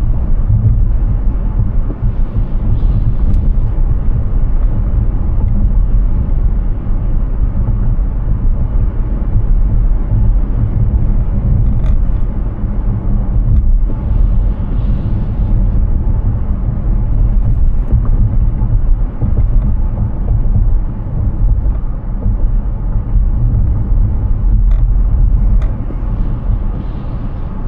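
Steady low road rumble of a Hyundai Ioniq 6 electric car driving: tyre and wind noise, with no engine note.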